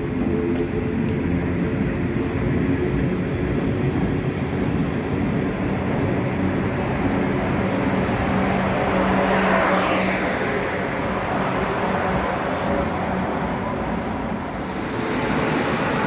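A train running through the station, a steady rumble with a low hum that builds to its loudest about ten seconds in, then eases off.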